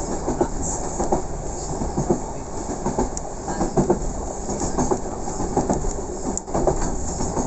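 Merseyrail electric passenger train running along the line, heard from inside the carriage: a steady rumble of wheels on track with frequent, irregular clacks and rattles.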